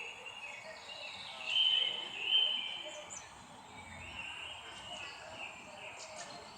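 Songbirds chirping and singing over a steady background hiss, the loudest phrases about two seconds in.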